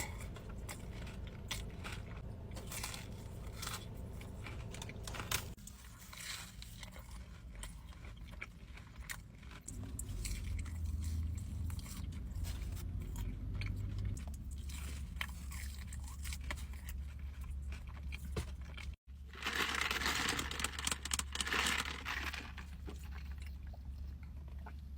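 Close-miked chewing and crunching of food, with many sharp crunches. After a brief dropout about nineteen seconds in comes a louder, denser run of crunching lasting a few seconds.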